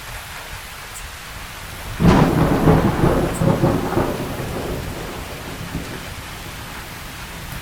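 A thunderclap over steady rain: a sudden crack about two seconds in that rolls and rumbles for a few seconds and then fades, while the rain goes on.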